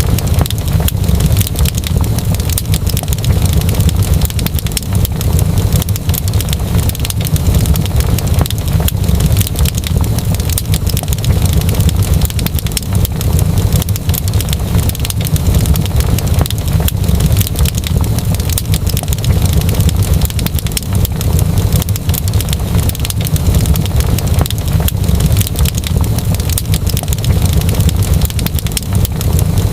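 Fire crackling steadily, with dense small pops and snaps over a deep, constant low rumble.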